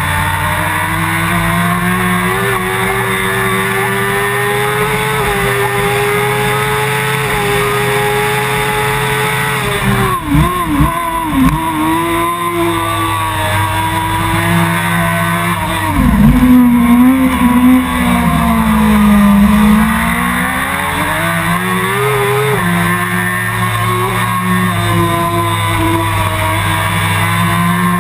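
Suzuki GSX-R 1000 inline-four sportbike engine at racing revs, heard onboard with wind rush. It holds high revs, wavers and dips with quick blips about ten seconds in, drops sharply about sixteen seconds in as the bike brakes and downshifts, then climbs again as it accelerates out of the corner.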